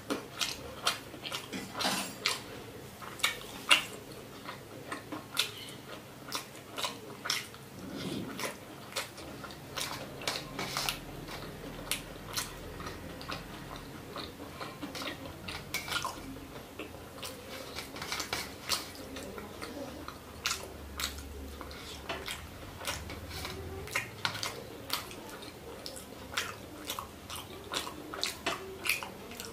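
Close-miked eating: chewing and mouth clicks as rice and fish are eaten by hand, with fingers working rice on a steel plate. Many sharp, irregular clicks throughout.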